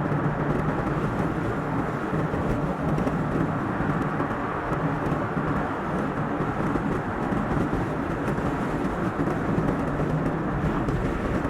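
Steady road and engine noise of a car driving on a highway, an even rushing sound with a low hum underneath.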